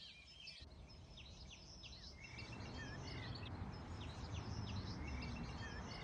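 Wild birds chirping: many short, high notes that sweep downward, repeated again and again, over a low, steady outdoor rumble.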